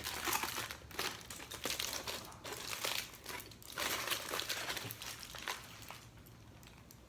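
Food packaging crinkling and rustling as it is handled, in irregular bursts that stop about six seconds in.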